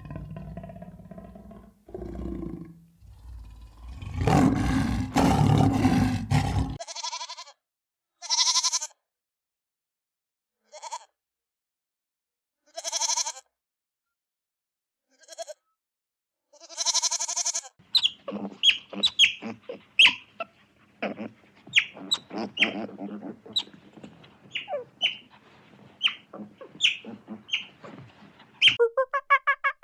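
A run of animal calls. Low, rough roaring lasts for the first several seconds. Then come about six separate goat bleats with gaps between them, and then a quick run of short, sharp chirping calls.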